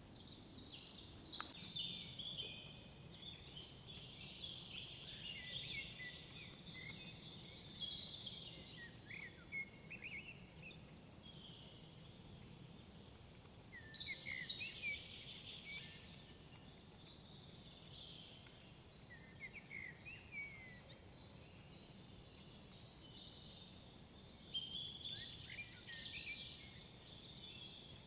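Songbirds singing in woodland: short bursts of chirps and trills return every few seconds, over a faint low background rumble.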